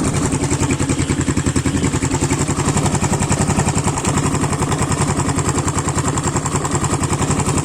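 Irbis TTR 250 dirt bike's single-cylinder four-stroke engine idling steadily with an even beat, freshly rebuilt with a new cylinder and piston. The owner judges it to be running normally, with the earlier knock gone.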